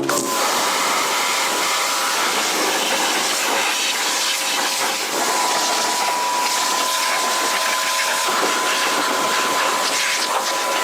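Steady loud hissing noise with a faint thin whistle running through it.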